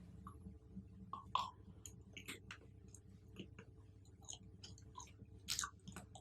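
Close-miked chewing of fruit: irregular wet clicks and crunches, several a second, with a louder crunch about a second in and a cluster near the end.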